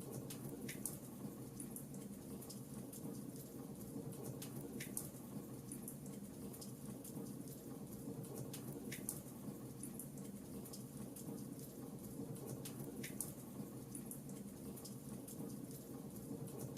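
Fireplace fire crackling: a steady low rumble of burning with scattered sharp pops and snaps, a stronger pop every few seconds.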